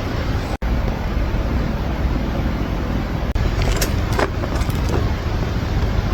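A steady, noisy rumble with a few light clinks between about four and five seconds in.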